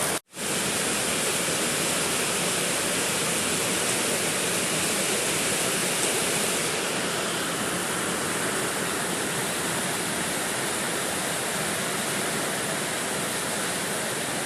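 Steady rain falling, an even hiss with no thunder, broken by a split-second dropout to silence just after the start.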